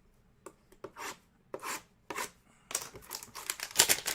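Trading cards and their cardboard and plastic packaging being handled: a few short sliding and rubbing strokes, then a denser crinkling rustle over the last second and a half.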